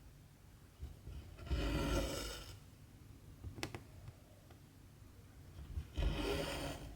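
Cotton embroidery thread pulled through 14-count cross-stitch fabric with a rasping drag, twice, each pull about a second long, with a light click between the two.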